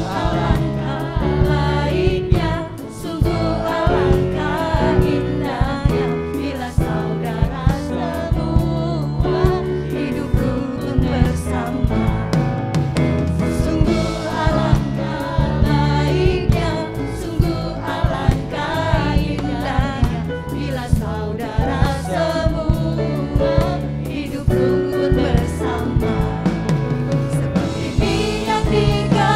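Church worship team singing a gospel praise song together, voices over a band with a steady beat.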